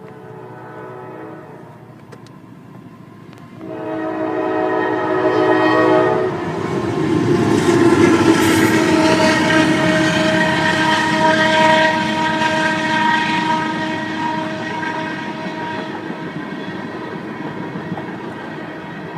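Norfolk Southern locomotive horn sounding a chord of several tones: a short faint blast at the start, then a long loud blast from about three and a half seconds in, its pitch dropping suddenly around six seconds in as the locomotive passes. The horn fades out after about fifteen seconds, leaving the steady rumble and clatter of the train rolling by.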